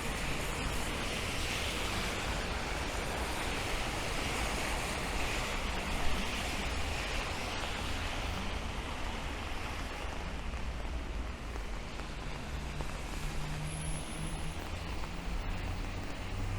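Steady rain mixed with the hiss of traffic on wet city streets. A vehicle's low engine hum comes up in the last few seconds, and there is one brief knock about six seconds in.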